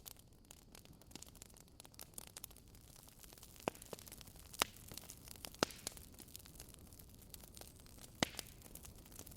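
Wood fire burning: irregular crackles and sharp pops of burning wood, with a few louder pops about four, five, six and eight seconds in, over a faint low hiss.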